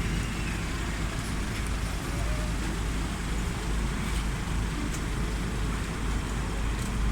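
Steady low rumble of engines and vehicle traffic with a hiss above it.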